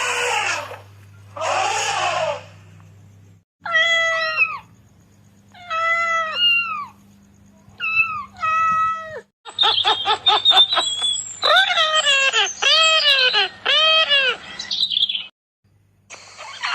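A sequence of different recorded animal calls one after another: two rough, noisy calls at the start, then three separate pitched calls that rise and fall, each about a second long, then a longer, busier stretch of quick clicks and arched calls.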